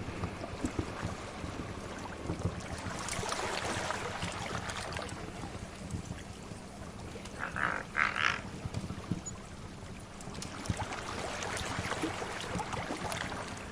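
Sea waves washing in slow swells, with a wood fire crackling in small pops. Two short, louder sounds come a little past the middle.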